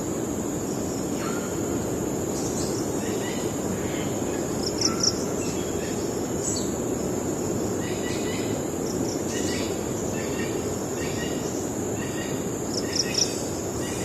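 Forest birds calling over steady wind noise and a continuous high-pitched insect drone: repeated short chirps throughout, with a louder quick double note about five seconds in and again near the end.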